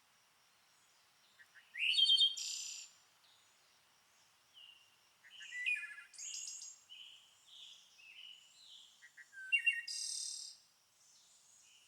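Songbirds singing: bursts of high chirps and short trills, loudest about two, six and ten seconds in, with quiet gaps between.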